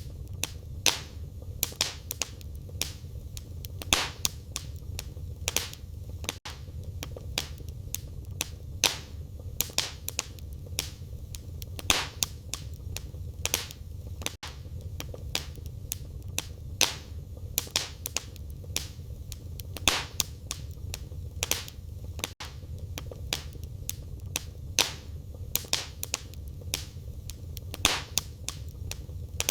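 Firewood burning in a fireplace, crackling and popping irregularly, with several sharp snaps a second over a steady low rumble of the flames.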